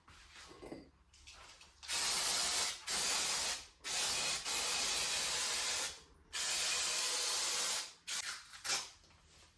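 Aerosol spray can spraying in four long hissing bursts with short pauses between them, as parts are cleaned or painted. Faint short handling sounds come before and after the bursts.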